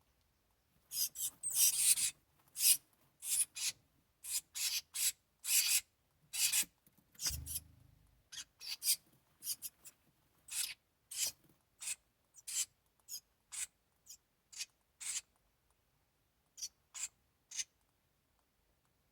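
House wren nestlings giving short, raspy, hissing begging calls in quick irregular bursts, thinning out in the second half, with a soft low thump about seven seconds in.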